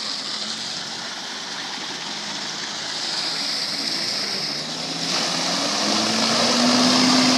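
Water jet-pack's engine running over a steady rush of water spray; about five seconds in it gets louder and its pitch starts rising as it revs up.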